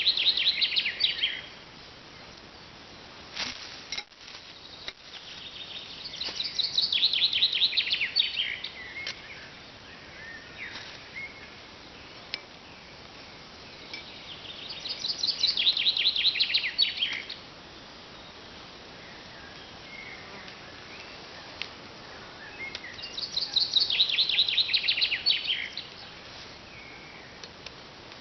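A songbird singing the same rapid, falling trilled phrase about every eight seconds, four times, over faint outdoor background noise. There are a couple of short clicks a few seconds in.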